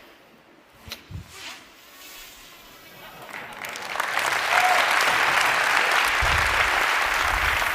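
Audience applauding. The applause swells in about three seconds in after a quiet stretch with a couple of faint knocks, then holds steady.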